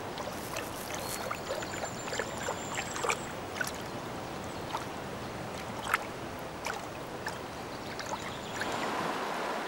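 River water trickling and lapping, with small scattered splashes and ticks as an otter slips into the water and swims.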